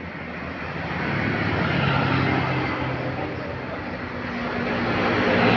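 Heavy vehicles, trucks or buses, passing by on a road: engine drone and tyre rush swell to a peak about two seconds in, ease off, then a second one builds to a peak near the end.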